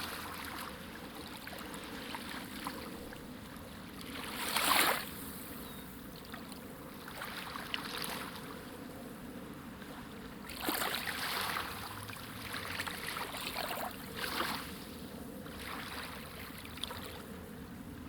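Sea waves washing and splashing, with several swells of surf, the loudest about five seconds in and others later.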